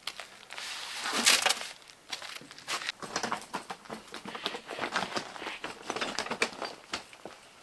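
Handwork noise: an irregular run of scrapes, crunches and light knocks, with a loud scraping crunch about a second in.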